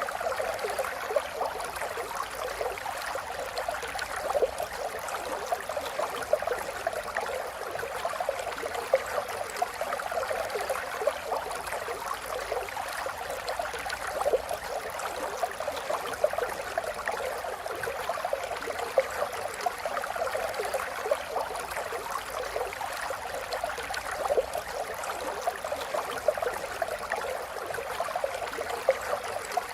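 Running water flowing steadily, a dense stream of small irregular splashes.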